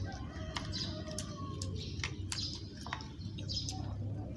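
Small birds chirping in short, repeated calls, with a few sharp clicks and a low steady hum underneath.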